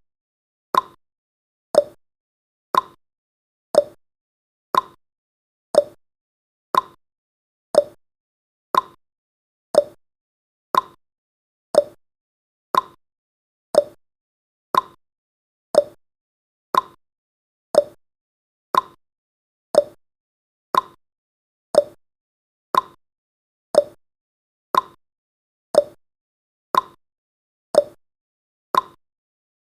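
Countdown timer's clock-tick sound effect: one sharp tick every second, alternating higher and lower like a tick-tock.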